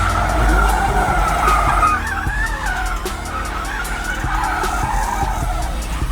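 Car tyres squealing in a long, wavering screech as a car slides, over a low rumble.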